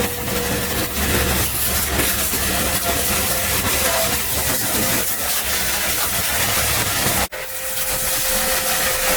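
Steady loud hiss from motor-driven cleaning equipment, with a low motor hum underneath; it cuts out for an instant about seven seconds in.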